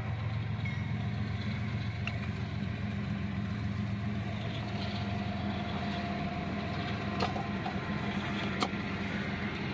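Freight cars rolling through a railroad crossing, heard from inside a waiting car: a steady low rumble and engine hum, with a few sharp clicks.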